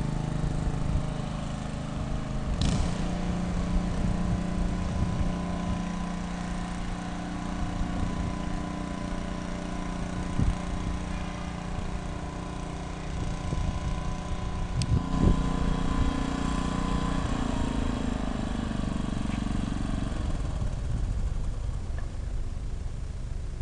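Aircraft engines running steadily with a steady hum and a faint whine. The sound dies down a few seconds before the end. A low rumble runs underneath, and there are a couple of sharp knocks along the way.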